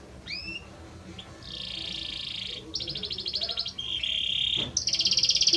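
Male Belgian canary singing: a short rising whistle, then a run of song phrases, each a fast series of repeated high notes, growing louder towards the end.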